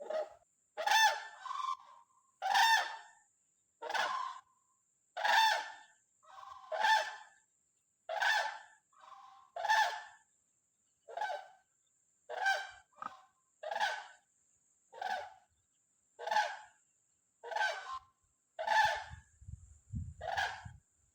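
A large bird calling over and over, one short call about every second and a half.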